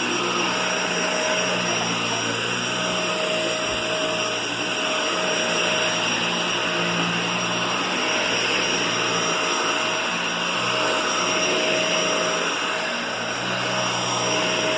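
Vacuum cleaner running steadily, a continuous motor drone with a steady whine over it.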